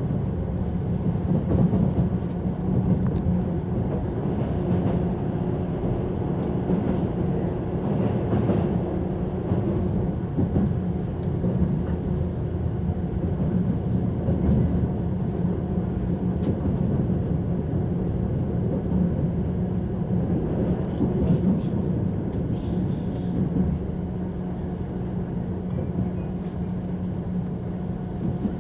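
Steady running noise inside a JR 185-series electric train: wheels rumbling on the rails with a steady hum underneath, easing slightly near the end.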